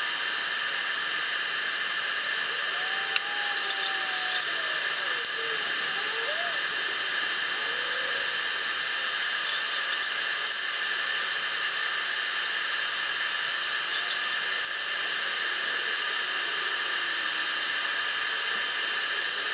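Electric arc welding on a steel fog-light bracket: a steady, even sizzling hiss with light crackle as a bead is run.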